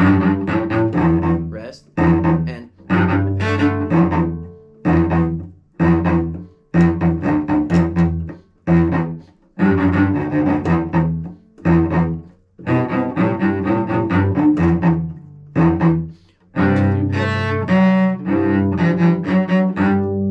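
Solo cello playing an orchestral excerpt at a slowed practice tempo: short phrases of bowed notes with brief breaks between them, growing more continuous near the end and finishing on a long held low note.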